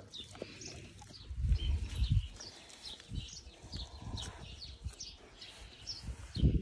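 Small birds chirping repeatedly in the background, with a few low thuds of handling about one and a half to two seconds in and again near the end.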